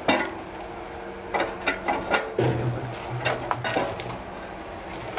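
Scattered metallic clicks and knocks of hand tools being worked on heavy machinery, with a low hum for a second or so past the midpoint.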